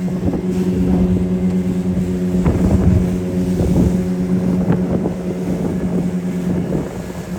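A 25 hp outboard motor runs steadily at cruising speed, driving a fishing boat. Irregular knocks and splashes of the hull on the waves break in over the engine hum, with some wind on the microphone.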